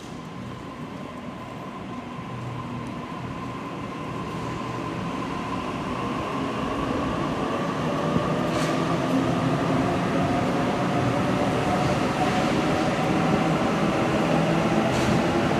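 Electric suburban train approaching in an underground station, its motor whine and rumble growing steadily louder, with the whine rising slightly in pitch.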